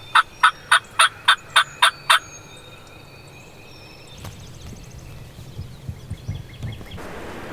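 A turkey yelping in a long, evenly spaced series of loud notes, about three a second, that stops about two seconds in. After that there is faint rustling, and wind noise picks up near the end.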